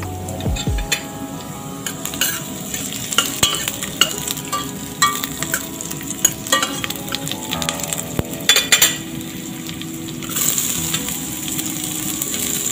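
Ginger and garlic slices sizzling in hot oil in a stainless steel pot, with sharp clicks and scrapes of a utensil stirring them against the pot. About ten seconds in the sizzle grows louder as sliced onions go into the oil.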